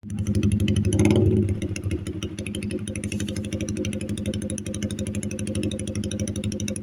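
2013 Yamaha Vixion New single-cylinder engine running through an aftermarket SC racing exhaust, idling with a brief throttle blip about a second in, then settling back to a steady, evenly pulsed idle.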